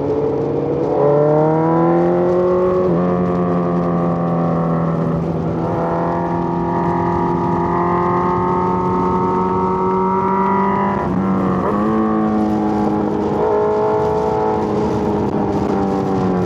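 Suzuki GSX-R1000 inline-four engine pulling up through the revs with a couple of brief dips that sound like gear changes, running fairly steady in between, then dropping in pitch as the bike slows near the end.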